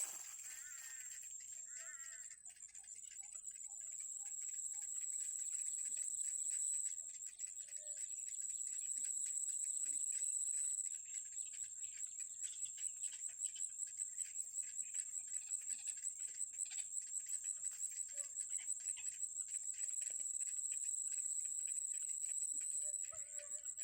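Steady high-pitched insect buzz with scattered faint bird chirps. From about the middle on, the buzz pulses rapidly.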